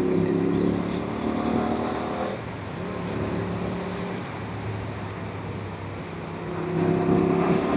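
Aprilia RS 457 parallel-twin motorcycle engine running under way, with wind rush. The engine note drops about two seconds in and swells again near the end.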